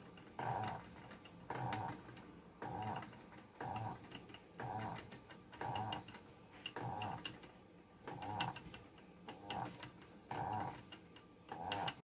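Spinning wheel being worked for yarn spinning: an even pulse about once a second with light clicks in between, as the wheel turns. It cuts off suddenly near the end.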